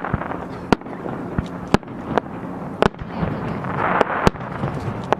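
Aerial firework shells bursting in a quick, irregular run of bangs, about two a second. A swell of crackling noise builds about four seconds in.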